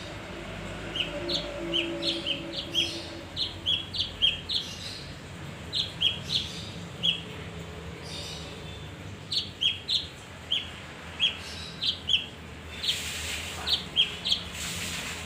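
Male kinoi calling: quick series of short, sharp chirps alternating between a higher and a lower note, in several bursts with short pauses between them.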